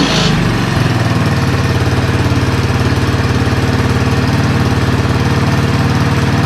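Honda ATC 200-series three-wheeler's single-cylinder four-stroke engine, just started after a top-end rebuild, dropping from a rev and settling within about a second into a steady, even idle.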